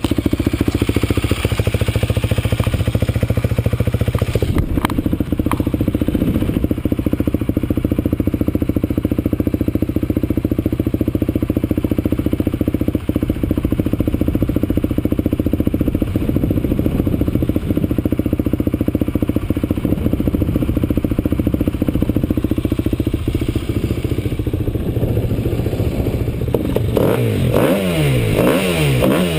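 Off-road vehicle engine running steadily under way, with an even rapid pulse. Near the end the engine revs up and down several times.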